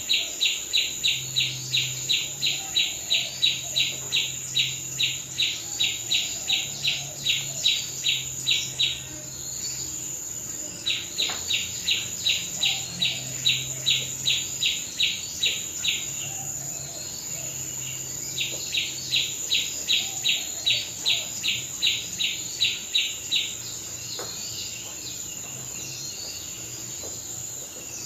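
Cricket chirping in long runs of even, high chirps about three a second, breaking off twice for a couple of seconds, over a steady high trill.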